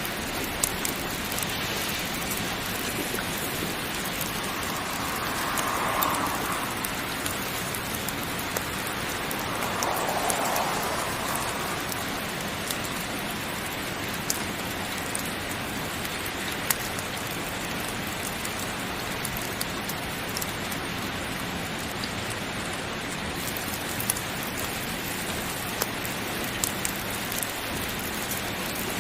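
Heavy rain falling steadily, with scattered sharp clicks and two brief swells in intensity, about six and ten seconds in.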